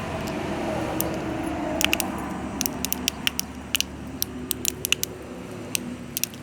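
Small objects popping in water: irregular sharp pops and crackles, sparse at first, then coming thick and fast from about two seconds in, over a low steady hum.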